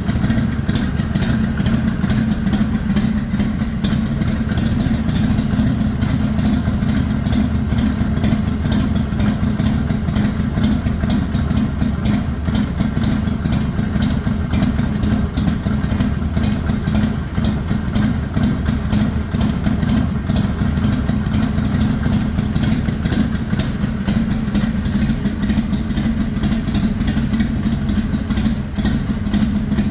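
Harley-Davidson XL883L Sportster's air-cooled 883 cc V-twin engine idling steadily.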